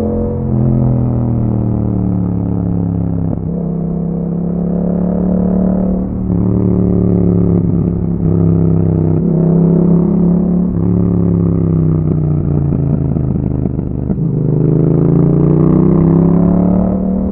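2021 Yamaha MT-07's parallel-twin engine running through an Akrapovic exhaust while riding under power. The engine note breaks briefly every few seconds as gears change, then its pitch sinks and climbs again in the last few seconds.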